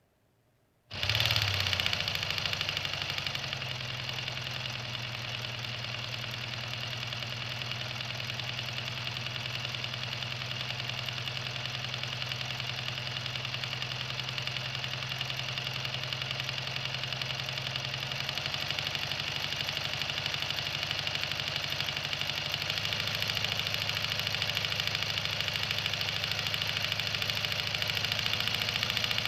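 Ingersoll Rand inline seven-cylinder two-stroke diesel engine bursting into life about a second in, then running steadily with heavy bass. Its note shifts slightly twice in the second half.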